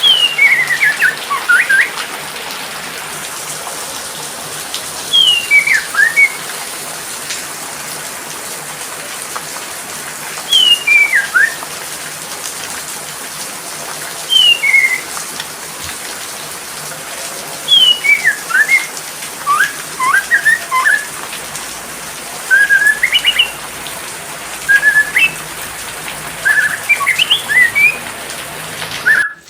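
Steady hiss of rain with a songbird singing over it: short, loud whistled phrases that fall in pitch, repeated every few seconds and coming closer together in the second half.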